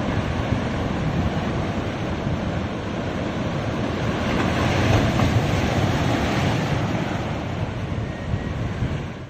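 Ocean surf washing onto a beach in a continuous rush, with wind buffeting the microphone; it swells a little midway and drops away abruptly at the very end.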